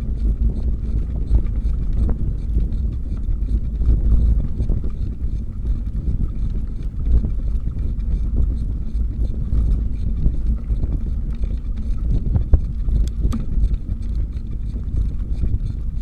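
Wind buffeting the microphone of a moving bicycle, a heavy, unsteady low rumble, with a few small clicks or rattles near the end.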